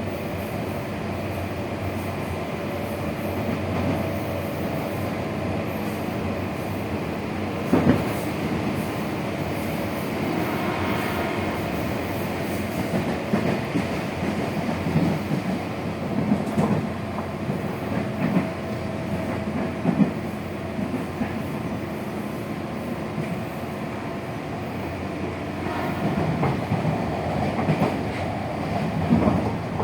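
A Tokyo Metro 6000-series electric train with Hitachi-Mitsubishi chopper control running on rails: a steady running noise under faint level tones, strongest in the first few seconds and again past the middle, with knocks now and then as the wheels cross rail joints.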